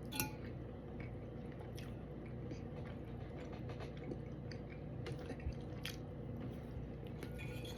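Faint wet chewing and mouth smacks from someone eating fish, with scattered small clicks.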